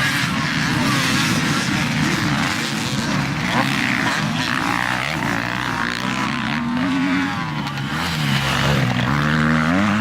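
Several motocross bikes racing, their engines revving up and down through the gears over one another.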